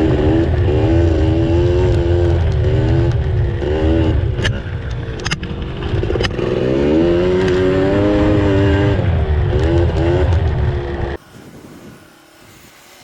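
Dirt bike engine being ridden, its pitch rising and falling repeatedly with the throttle. The engine sound drops away abruptly near the end, leaving it much quieter.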